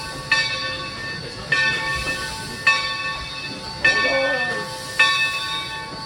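Steam locomotive's bell ringing with slow, even strokes, about one every second and a quarter, each ringing on and fading, over a steady hiss of steam.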